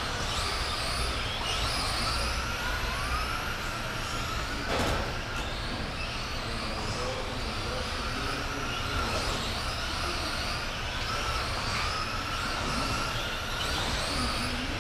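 Several RC racing trucks' electric motors whining, the pitch rising and falling over and over as the trucks accelerate and brake around the track.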